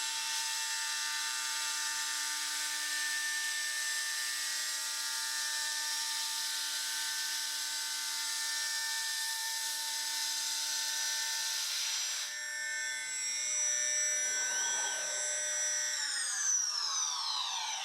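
CNC router spindle turning at 18,000 rpm with a 3-flute end mill, taking a light finishing contour pass in aluminium: a steady whine with a hiss of cutting. About twelve seconds in, the cutting noise drops away, and near the end the spindle winds down with its pitch falling.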